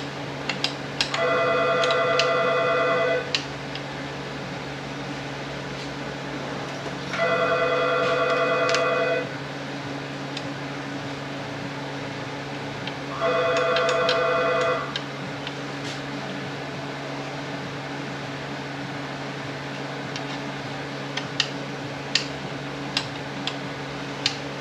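Telephone ringing three times, each ring about two seconds long and some six seconds apart, over a steady low hum. Scattered light clicks and taps run through it, more of them near the end.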